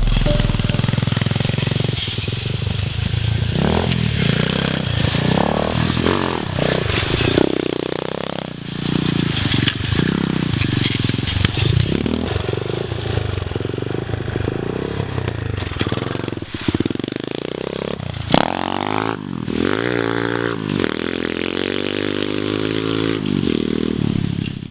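Dirt bike engine revving up and down repeatedly as it is ridden, with the pitch climbing and dropping again and again. The sound cuts off suddenly at the end.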